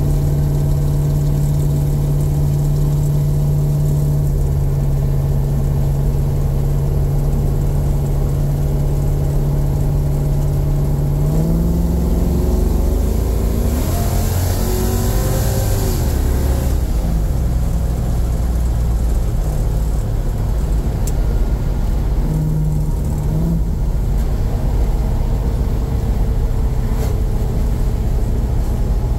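A 5.3-litre LS V8 in a 1971 Chevrolet Nova, heard from inside the cabin while driving. It runs at a steady note for about eleven seconds. Then the pitch climbs and shifts as it pulls, and it settles into a lower, rougher drone with road noise and a brief rise in revs near the end.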